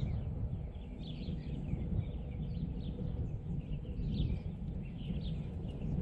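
Birds chirping: many short, falling chirps come in quick succession throughout, over a low rumble of wind and the walker's footsteps.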